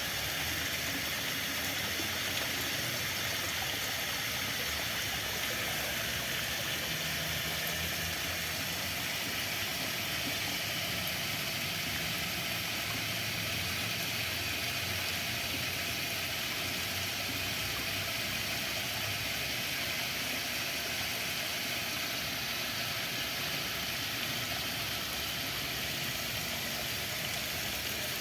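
Steady, even rush of running water, with a low rumble underneath that comes up in the middle.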